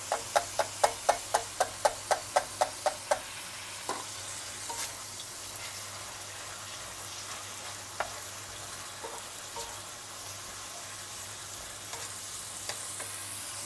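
Chicken, onion and garlic sizzling in hot sesame oil in a pan as they are stirred. In the first three seconds, a quick run of about a dozen ringing taps, about four a second, then a few scattered single clicks.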